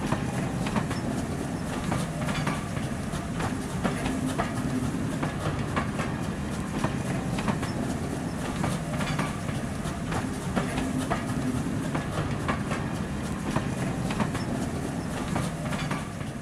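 Railway coaches passing close by: a steady rumble with a run of sharp clicks as the wheels cross the rail joints.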